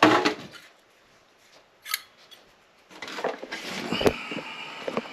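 Handling noise from small hardware and tools: a sharp click about two seconds in, then irregular rubbing and clinking.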